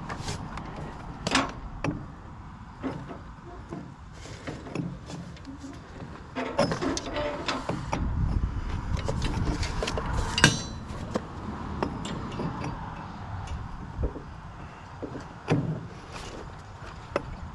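Scattered metal clanks, clicks and knocks as a mower's PTO drive shaft is worked onto a tractor's PTO stub, the loudest a ringing clank about ten seconds in.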